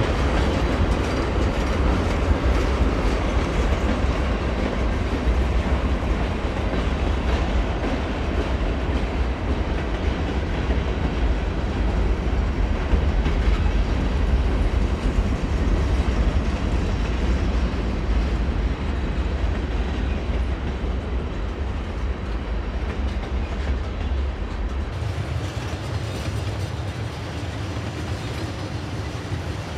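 Train cars rolling along the rails with a steady rumble. The deepest part of the rumble changes near the end.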